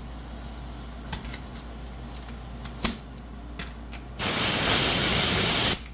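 A loud, steady hiss lasting about a second and a half, starting about four seconds in and stopping abruptly, with a few faint clicks before it.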